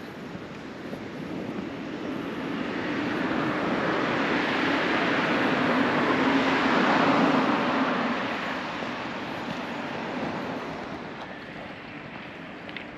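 A vehicle passing by: a broad rumbling noise that grows louder over several seconds, peaks about seven seconds in, then fades away.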